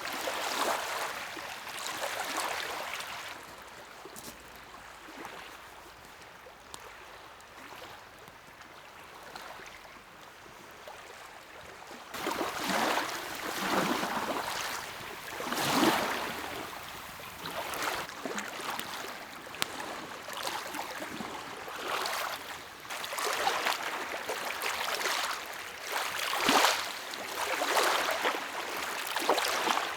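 Small lake waves lapping against the shore, each wash a short swell of splashing noise. It is soft for the first dozen seconds, then the washes come every second or two and louder.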